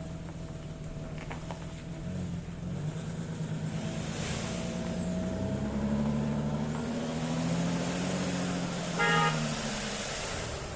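Volkswagen Touareg's freshly overhauled 3.2 VR6 petrol engine running as the car pulls away, its note rising about halfway through. About nine seconds in, a short car-horn toot sounds.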